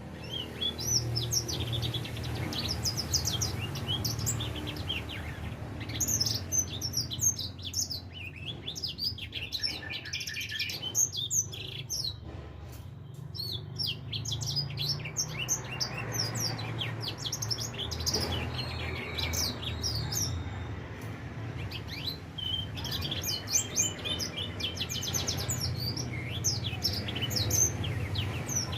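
Young grey singing finch (edel sanger), about four months old, singing a continuous fast twittering song of short high notes, the stage where a young bird starts singing freely. A low steady hum runs underneath.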